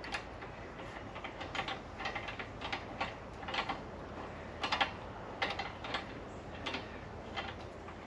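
Irregular light clicks and taps, a few a second, some single and some in quick clusters.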